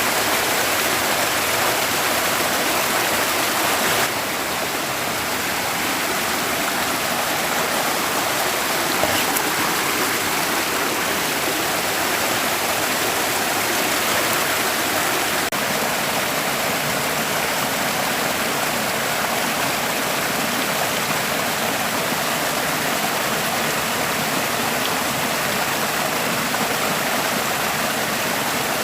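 Forest stream flowing, a steady rushing of water; the level steps down slightly about four seconds in.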